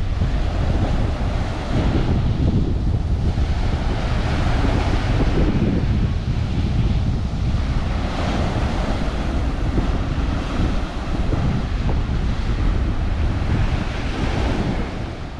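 Ocean surf washing onto a sandy beach, swelling and ebbing every few seconds, with wind buffeting the microphone in a constant low rumble.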